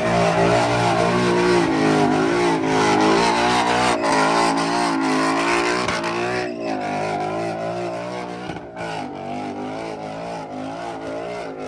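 Car engine revving, its pitch rising and falling repeatedly, louder in the first half and easing off after about six seconds.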